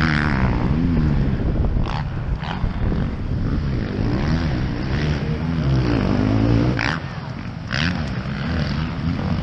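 Motocross dirt bike engines revving, their pitch rising and falling again and again as riders work the throttle through the track.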